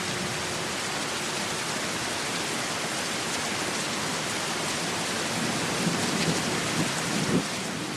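Steady rain with an even hiss. A last acoustic guitar note dies away at the start, and low rumbles come in near the end.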